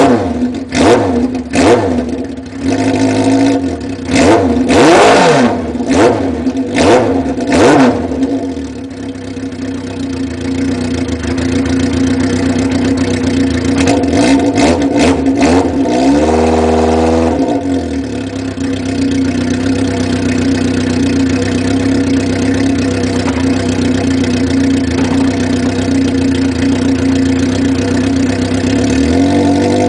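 Kawasaki KZ750 motorcycle engine running through a Kerker exhaust with the muffler off, blipped up and down repeatedly for the first eight seconds or so, then settling to a steady idle. It revs once more briefly partway through, and the revs start to climb again near the end.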